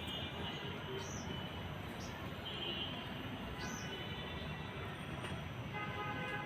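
Small birds giving short, high chirps about once a second over a steady rushing background noise.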